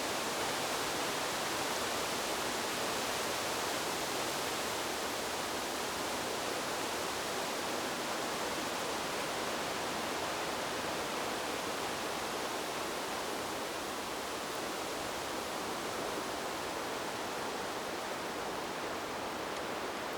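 Wind blowing through a bamboo grove: a steady, even hiss of moving leaves with no breaks or separate gusts.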